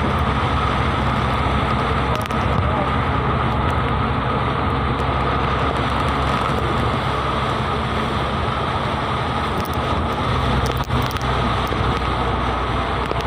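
Steady, continuous noise of falling rain over a low, even rumble.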